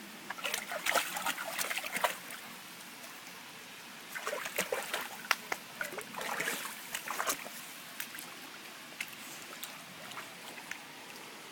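A cocker spaniel splashing and wading in a shallow forest water-treading basin, in two irregular bursts of splashes over a steady trickle of water; the splashing thins out to a few drips near the end.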